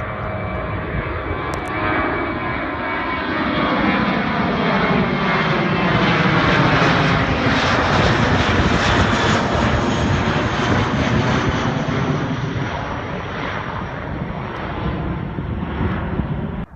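Jet airliner passing low overhead on take-off: loud jet engine noise builds to a peak in the middle, with tones sliding down in pitch as it goes past, then eases off.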